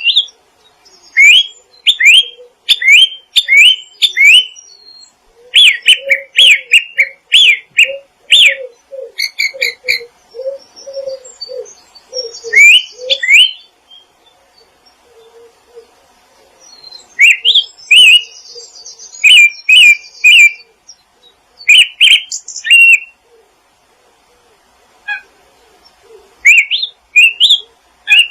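Small songbirds calling in bursts of quick, sharp rising chirps, with a few pauses of silence. Several seconds in, a lower rapid run of notes sounds beneath the chirps for a while.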